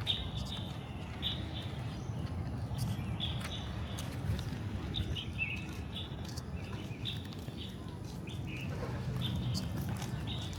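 Small birds chirping in short, repeated calls, over a steady low background rumble.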